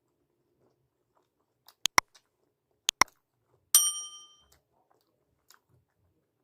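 Two quick pairs of sharp clicks, then a metal utensil striking a dish with a single ringing ding that fades over about half a second: tableware handled as the meal begins.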